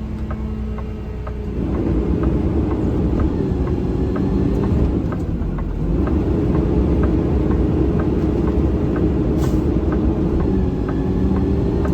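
Garbage truck's diesel engine and cab noise while driving: a steady low drone whose note shifts a couple of times, with a regular light ticking.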